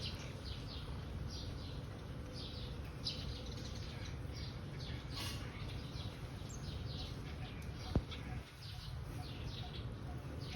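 A small bird chirping over and over, short high chirps coming two or three a second, over a steady low rumble. A single sharp click about eight seconds in.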